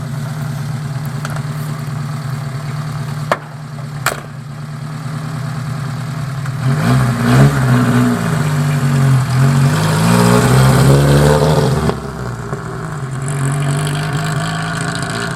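Mitsubishi Colt Galant AII-GS engine through its dual exhaust, idling steadily with two sharp clicks a few seconds in. About seven seconds in it is revved several times, the pitch rising and falling for about five seconds and louder, then it settles back toward idle.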